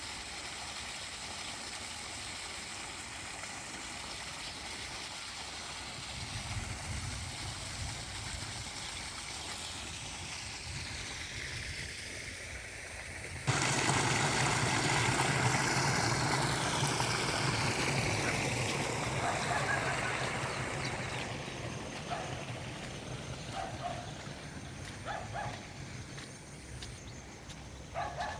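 Steady rain and running rainwater. The sound jumps louder suddenly about halfway through, then slowly eases, with a few short sounds near the end.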